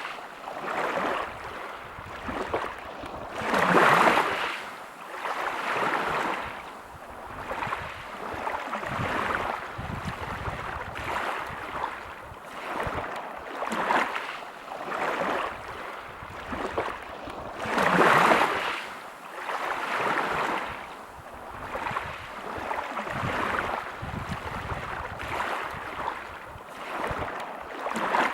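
Sea waves breaking on a pebble beach, a surge of wash every two seconds or so, with two bigger waves about four seconds in and again near eighteen seconds.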